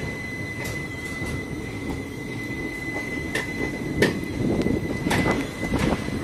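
Express passenger train running, heard from on board: a steady rumble with irregular sharp clacks as the wheels pass over rail joints, growing louder in the last couple of seconds, and a steady high-pitched whine.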